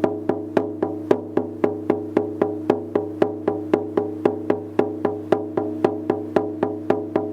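Shaman's frame drum beaten in a steady, even rhythm of about four strokes a second, each stroke ringing on into the next so that a low hum runs beneath the beats.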